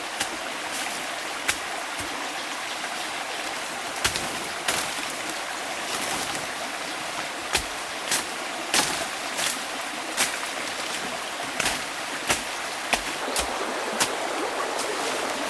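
Running water with a steady rushing hiss, broken by about twenty sharp, irregularly spaced clicks or knocks.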